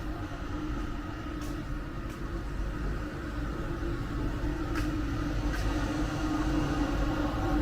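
Small drone's propellers humming steadily in flight, over a low rumble of wind on the microphone, with a few faint high ticks.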